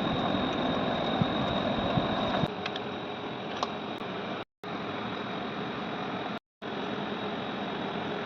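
Ceiling fan running steadily after its bearing has been cleaned with kerosene and greased: an even whirring with a thin high whine over it. The sound cuts out abruptly for a moment twice, about four and a half and six and a half seconds in.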